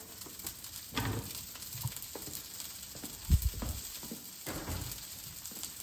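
Panko-breaded chicken breasts sizzling steadily in a skillet, with a few soft knocks from handling in the kitchen.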